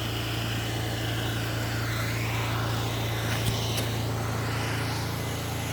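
Pressure washer running: a steady engine drone under a hissing spray that rises and falls. Two short clicks about three and a half seconds in.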